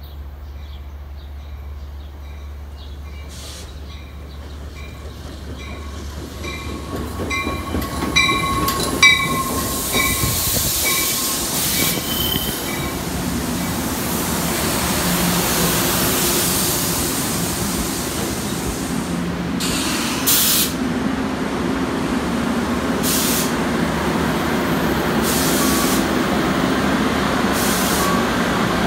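NJ Transit electric commuter train of Comet coaches, pushed by an ALP-46A locomotive at the rear, pulling slowly into the station. A bell rings at an even pace as the train approaches. A rumble of wheels on the rails grows louder from about six seconds in as the coaches come alongside, and several short hisses of air come in the second half.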